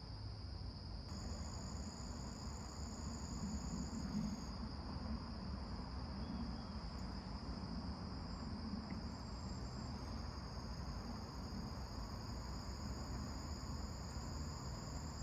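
A steady chorus of insects trilling: one constant high trill, with other, higher trills starting and stopping, over a low rumble.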